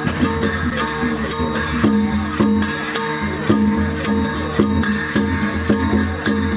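Traditional Shan (Tai Yai) dance music from a percussion ensemble. Sharp cymbal-like strikes fall about twice a second over sustained, ringing gong tones in a steady rhythm.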